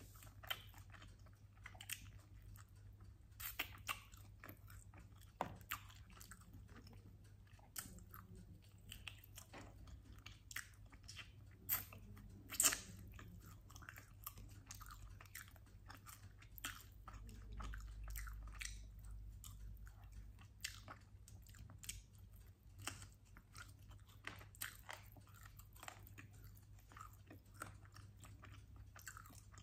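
Close-miked chewing and biting of sauced chicken wings, with scattered sharp crunches and clicks; the sharpest crunch comes about twelve seconds in.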